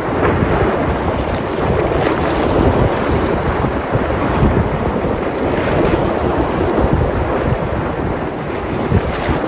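Sea surf washing and breaking on the shore, a steady rush that swells and eases, with wind buffeting the microphone in a low, gusty rumble.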